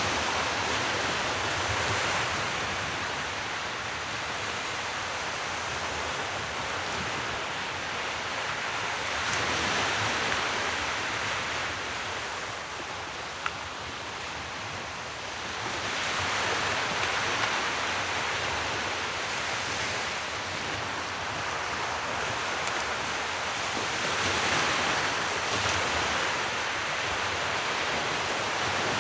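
Sea waves surging and falling back, a swell of rushing water about every seven to eight seconds. A single brief click comes about halfway through.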